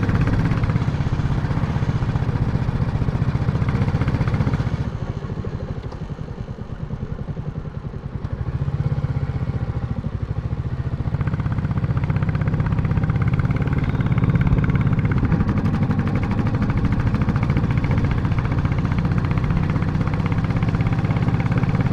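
Royal Enfield Classic motorcycle engine running steadily. About five seconds in it goes quieter for a few seconds, then builds back up and runs on steadily.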